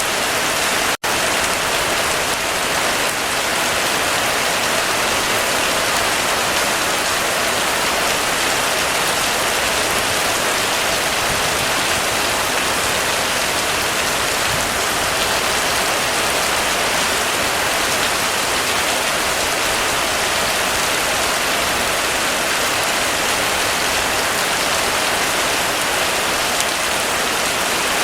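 Heavy rainstorm, rain falling steadily and evenly on surfaces, with a momentary cut-out to near silence about a second in.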